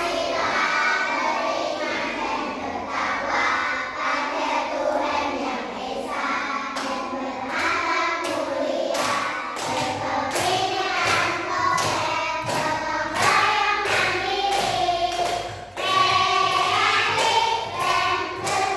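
A class of young children singing together in chorus, with a steady beat of thumps, about two a second, joining in about six seconds in.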